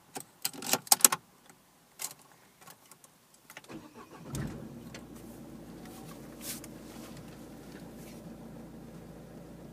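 Ignition key clicking round in the lock of a 2013 Vauxhall Zafira, then the engine cranks briefly about four seconds in, catches and settles into a steady idle.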